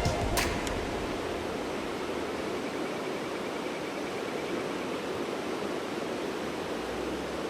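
Steady rushing of flowing river water, even and unchanging, with a single short click about half a second in.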